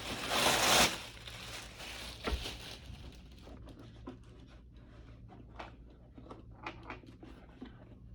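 Packaging being handled while a humidifier is unboxed. A loud rustle of packaging comes in the first second, a knock follows about two seconds in, then scattered small clicks and rustles of parts being handled.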